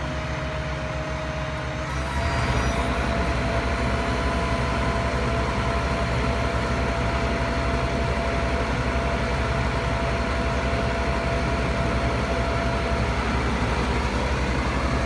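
Bucket truck's engine running steadily. About two seconds in it steps up to a louder, faster run and holds there, with a faint steady whine above it.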